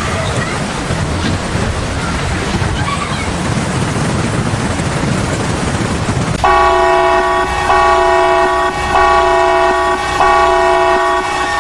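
A steady rushing noise, then about halfway through a loud multi-note horn starts. It sounds in four long, steady blasts, each a chord of several pitches with a short break between them.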